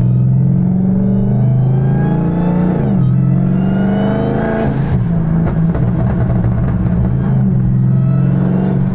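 Dodge Hellcat's supercharged V8 accelerating hard. The pitch climbs, drops sharply at an upshift about three seconds in, climbs again and drops at a second shift near five seconds, then holds steady.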